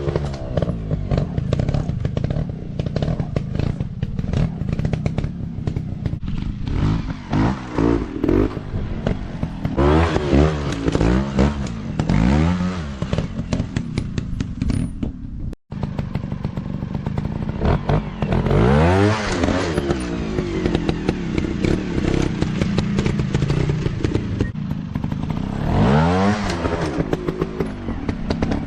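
Small dirt bike engines revving up and falling back again and again, the pitch sweeping up and down many times, with some clatter. The sound drops out for an instant about halfway through.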